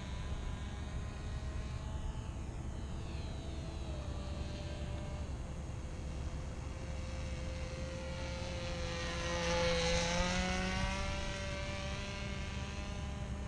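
Norvel .061 two-stroke glow engine of a model airplane in flight, a steady high-pitched drone that grows louder with its pitch wavering about two-thirds of the way through as the plane comes nearer. The pilot says it is still running really rich.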